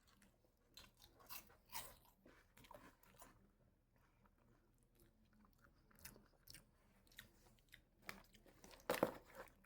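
Faint chewing sounds at the edge of silence: scattered small clicks and crunches, with a quiet gap in the middle.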